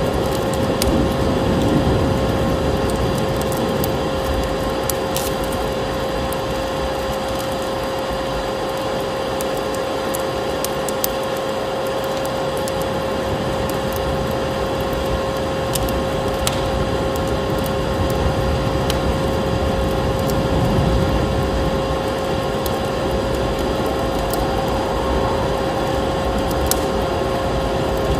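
Vacuum cleaner motor running steadily with a constant whine, mixed with fireplace crackle: scattered sharp pops and snaps over a low wind rumble that swells now and then.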